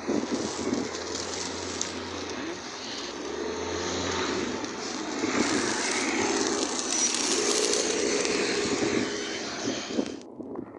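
Rushing outdoor noise in a snowstorm, swelling over several seconds and cutting off abruptly near the end.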